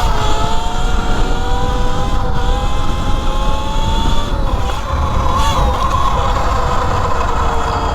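Electric motor and drivetrain whine of an E Ride Pro SS 3.0 electric motorbike, rising in pitch as it accelerates at the start, then holding steady at speed and easing slightly lower near the end, over low wind rumble on the microphone.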